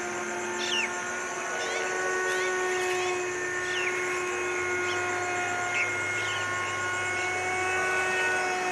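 Small electric motor whining at a steady speed, a constant multi-tone hum that does not rise or fall. Short high falling chirps sound over it several times.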